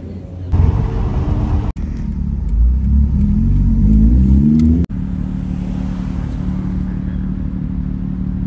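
Car engine accelerating hard, its pitch rising and dropping back several times as it shifts up through the gears, then cutting abruptly to a steady engine drone.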